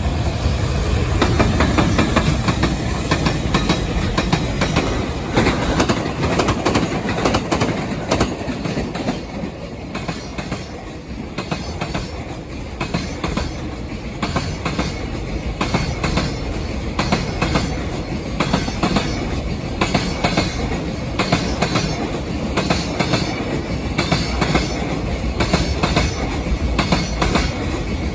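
Freight train's wagons rolling past, the wheels clacking over rail joints in a steady, repeating rhythm over a continuous rumble.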